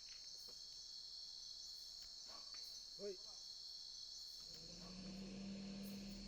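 A night insect chorus: a steady, high-pitched, many-layered trilling. A short lower call comes about three seconds in, and a low steady drone joins in the last second and a half.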